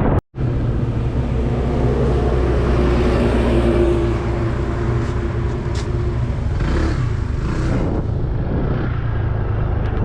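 Motorbike engine running steadily while riding. The sound drops out briefly a moment after the start.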